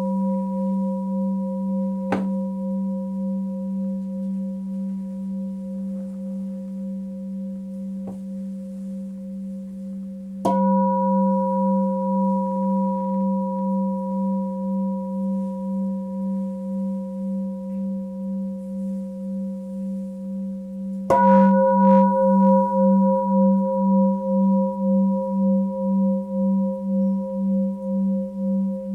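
Tibetan singing bowl ringing with a low hum and a slow wavering pulse, struck again about ten seconds in and again about twenty-one seconds in, each strike bringing the tone back up before it slowly fades.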